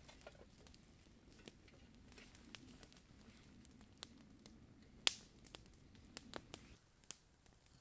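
Campfire crackling faintly, with scattered sharp pops and snaps over a low steady hiss; the loudest pop comes about five seconds in, and the hiss cuts off abruptly near the end.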